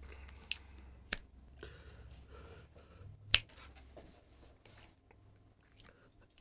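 Three sharp clicks about half a second, one second and three seconds in, the last the loudest, over a faint low hum and soft hiss.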